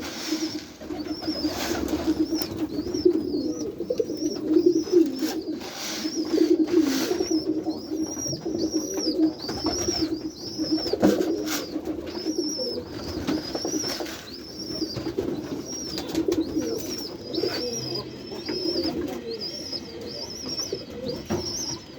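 Many domestic pigeons cooing together in a loft, a continuous low overlapping coo, with a thin high chirp repeating a little over once a second above it. A few sharp clicks come in the first several seconds.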